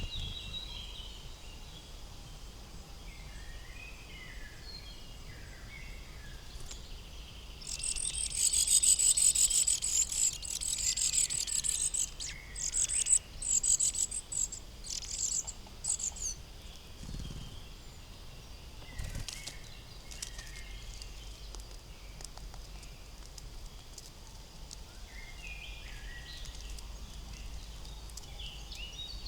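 Wild forest birds calling with soft high chirps. From about eight seconds in, a loud run of rapid high notes starts close by and breaks into separate bursts before fading out about eight seconds later.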